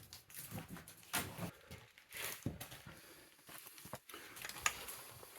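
Irregular footsteps and scuffs of people walking, a few short knocks at uneven intervals.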